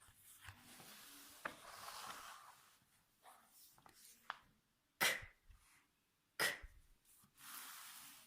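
Faint rustling of paper pages being handled and turned in a book, with a few small clicks and two short, sharper sounds in the second half.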